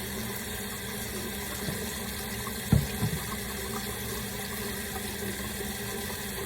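Water running steadily from a tap into a sink, with one short knock a little under three seconds in.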